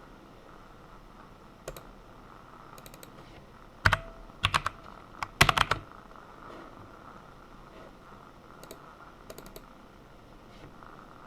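Computer keyboard keystrokes, sparse and irregular: a few light taps, then a quick cluster of several louder key presses about halfway through.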